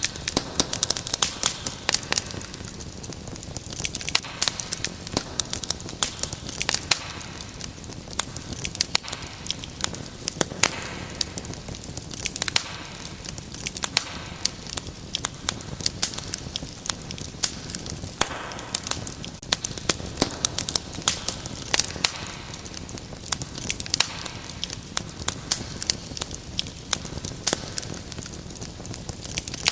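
Wood fire crackling, with frequent irregular sharp pops and snaps over a steady low hiss.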